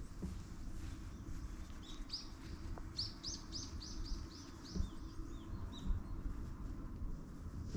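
A small songbird chirping: a quick run of about eight short high notes, each falling in pitch, mostly around the middle, over a steady low rumble.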